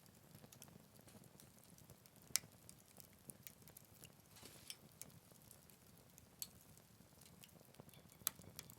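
Quiet wood fire crackling in a Picogrill 398 fire pit: a faint soft hiss with scattered sharp pops, the loudest about two and a half seconds in and again near the end.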